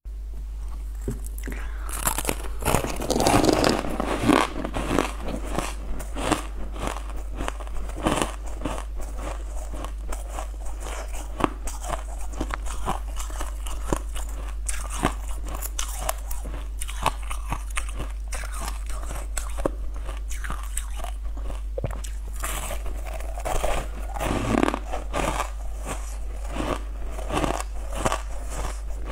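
Close-miked biting and chewing of crunchy sugar-frosted honeycomb pieces, a steady run of crackly crunches. The crunching is louder about three seconds in and again about twenty-four seconds in.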